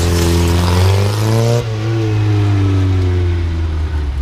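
Classic Mini's engine revving hard as the car accelerates through a motorkhana test. The pitch climbs, drops suddenly about a second and a half in, then falls slowly.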